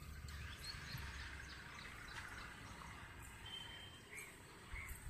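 Faint birds chirping over low outdoor background noise, with short calls scattered through and one brief held whistle a little past halfway.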